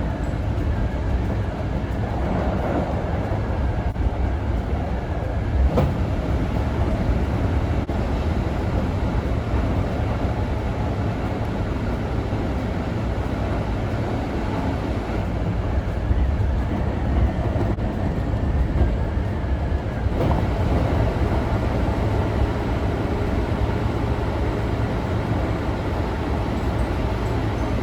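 Train running, a steady low rumble with a couple of faint clicks.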